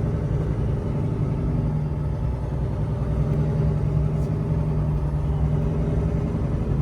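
Semi-truck diesel engine running steadily with an even low drone.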